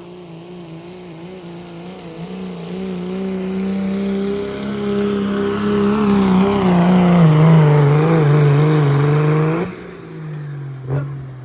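Diesel pulling tractor at full throttle dragging the weight-transfer sled down the track, its engine growing louder and its pitch sagging as the load builds. About nine and a half seconds in the throttle is cut, and the engine drops abruptly to a low idle at the end of the pull.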